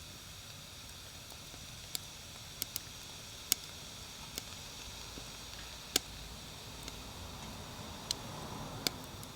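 Wood fire crackling: about nine sharp, irregular pops and snaps over a steady soft hiss.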